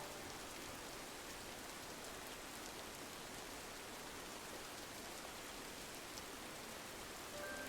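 Steady rain on a window: an even hiss with faint scattered ticks of drops. Soft music notes come in right at the end.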